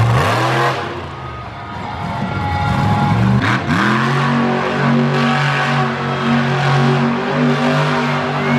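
Monster truck engine revving: it climbs in pitch right at the start, eases, then climbs again about three and a half seconds in and holds a steady high pitch.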